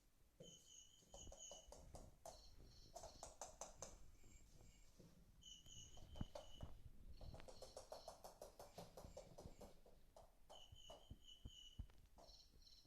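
Interactive cat toy ball playing its electronic insect-like chirping sound: short bursts of high chirps every couple of seconds, alternating with rapid clicking trills.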